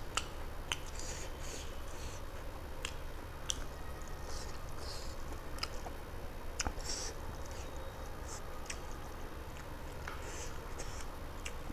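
Close-miked chewing and lip smacking of a person eating rice and chicken curry with the fingers, with scattered short wet clicks, over a steady low hum.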